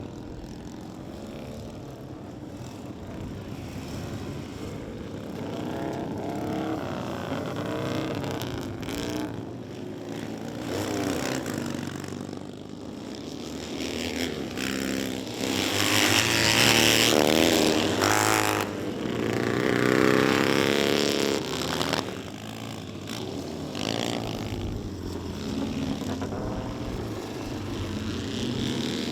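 Vintage racing motorcycle engines on track, their pitch rising and falling as they rev and pass. The sound grows loudest for several seconds about halfway through.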